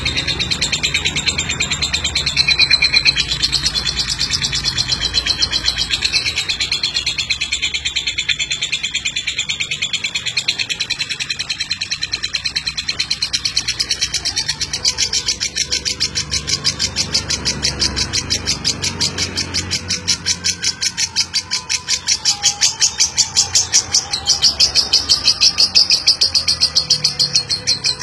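Lovebird singing a long, unbroken 'ngeklek' song: a rapid, chattering trill of quick repeated notes that runs without a pause and grows louder in the last few seconds.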